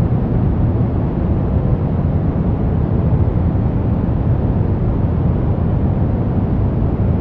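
Steady brown noise: an even, deep rumbling hiss with most of its energy in the bass, thinning toward the treble, with no changes.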